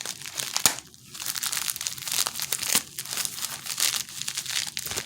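Plastic wrapping crinkling and rustling as a box of trading card packs is unwrapped, with a sharp click about half a second in.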